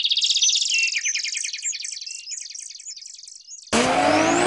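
Small bird chirping in a rapid run of repeated high notes, fading over about three seconds. About three and a half seconds in, a loud race-car sound effect cuts in abruptly, with a rising whine.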